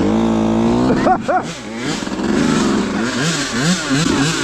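Dirt bike engines running close by, the pitch swinging up and down quickly and repeatedly in the second half as the throttle is worked.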